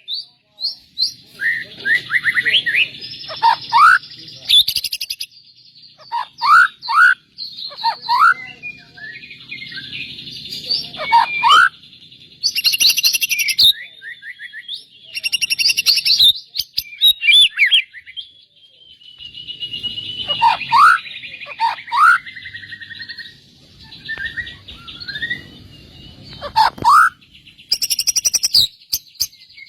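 White-rumped shama singing a long, varied song of rapid whistled sweeps, fast trills and chattering phrases, with hardly a pause.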